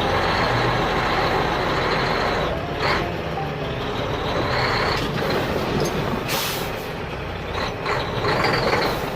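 Heavy truck engine running steadily, with short hissing bursts like air-brake releases, the longest about six and a half seconds in; the sound cuts off abruptly at the end.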